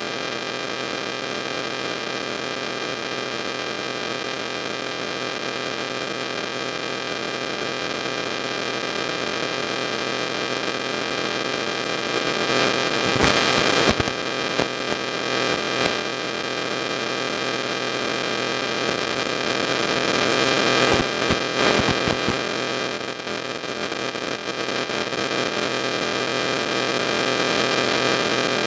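Steady electrical hum and hiss with several fixed tones running through it, broken by a few crackles and clicks about halfway through and again about three-quarters through.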